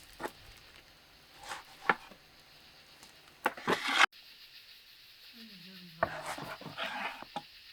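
Scattered light knocks and clatters, a few at a time, with a short faint wavering tone about halfway through.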